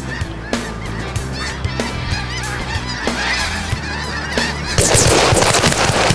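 A large flock of snow geese calling, many high honks overlapping at once. About five seconds in, a loud rushing noise rises over the calls.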